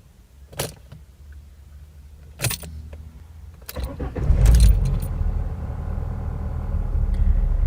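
Renault Clio being restarted: keys clicking and jangling in the ignition, then about four seconds in the starter cranks briefly and the engine catches at once and settles into a steady idle. It starts without any trouble now that its crankshaft position sensor has been cleaned.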